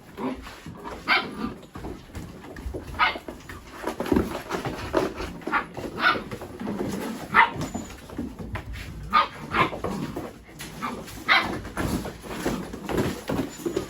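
Mini Goldendoodle puppies yipping while they play: short, high-pitched yelps every second or two, over a constant low scuffling.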